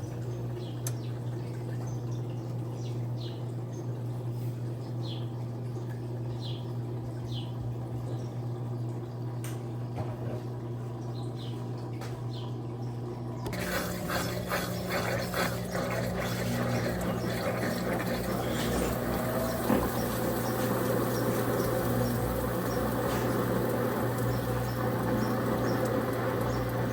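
Electrolux Turbo Capacidade 15 kg top-loading washing machine partway through its cycle, with water running in the tub over a steady motor hum. About thirteen seconds in the sound changes abruptly and grows louder.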